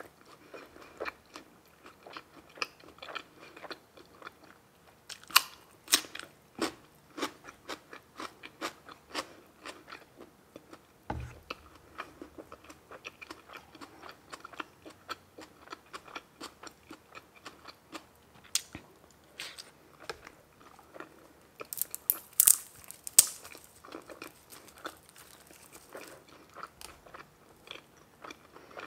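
Close-up mouth sounds of a person chewing and biting food, with dense, irregular wet clicks. About three quarters of the way through comes a short run of louder, crisp crunches.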